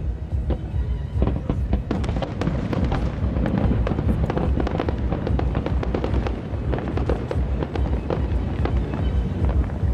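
Aerial firework shells bursting in a rapid, continuous barrage: many sharp bangs and crackles over a constant deep booming, growing denser about two seconds in.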